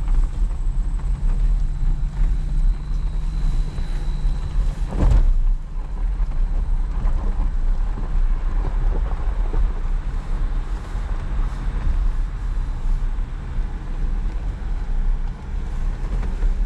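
Off-road vehicle running over rough ground, a steady low rumble with wind buffeting the microphone. A single sharp knock about five seconds in, like the vehicle jolting over rock.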